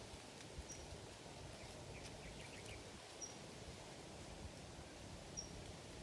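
Faint outdoor background with a few short, high chirps spaced two to three seconds apart.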